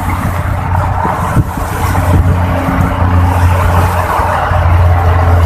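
A vehicle engine running steadily with a low drone, with a rushing noise over it.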